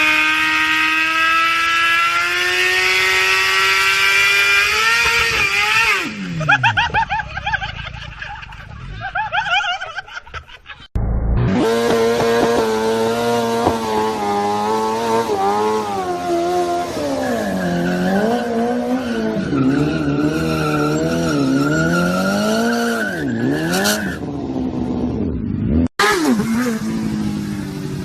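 Motor vehicle engines running hard in a string of short clips, their pitch climbing steadily at first, then wavering up and down through revs and gear changes. The sound cuts off abruptly three times.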